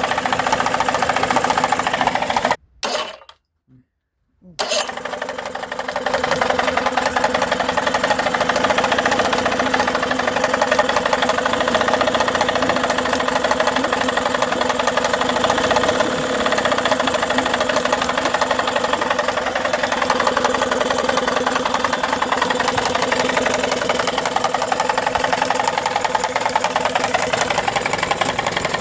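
Tohatsu 18 hp two-stroke outboard motor running with a knocking sound. The sound drops out for about two seconds, three seconds in, then the motor runs again, building back up over the next second or so.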